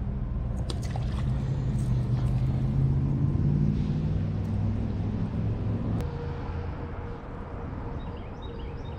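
Low engine rumble of a passing motor vehicle. It swells over the first few seconds and stops about six seconds in, leaving a fainter steady hum.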